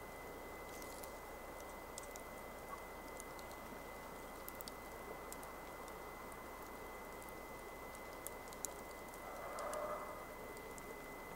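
Wood campfire burning: a soft, steady hiss with sparse sharp crackles and pops from the wood. A thin steady high whine runs under it, and a brief louder sound with some pitch comes near the end.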